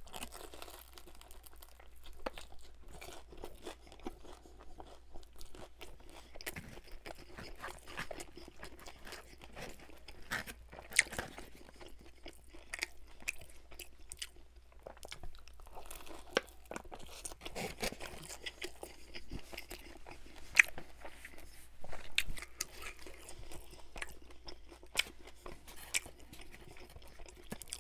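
Close-miked chewing of a crisp fried egg roll: a bite at the start, then crunches and wet mouth sounds scattered throughout.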